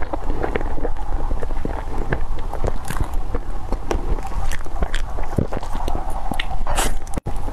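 Close-miked mukbang eating: wet chewing with many quick mouth clicks and smacks, and a short airy slurp near the end.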